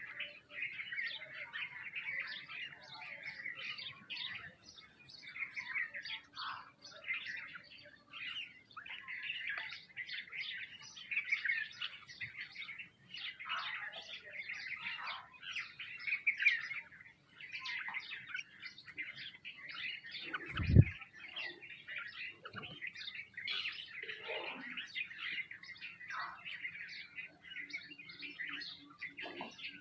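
Many small birds chirping and twittering continuously, with one sharp thump about two-thirds of the way through.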